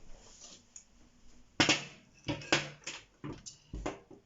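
Handling of 3D printer kit parts on a table: soft rustling, then a run of about seven sharp knocks and clacks as parts are picked up and set down, the first of them the loudest.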